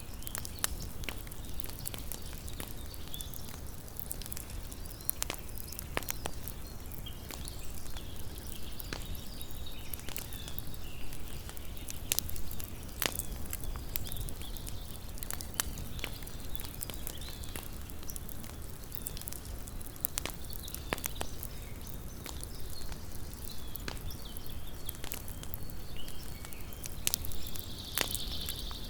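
Small wood campfire crackling, with irregular sharp pops and snaps over a steady low rumble of burning. A brief high-pitched sound enters near the end.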